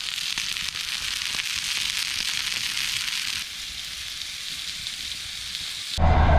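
Food sizzling and crackling in a freshly seasoned hunter's pan (Jägerpfanne) over a fire. The sizzle eases a little about three and a half seconds in, and about six seconds in it cuts off abruptly to a louder low rumble.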